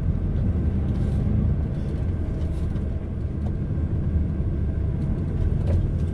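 Steady low drone of an HGV lorry's diesel engine heard from inside the cab while driving, with the air-conditioning blowing.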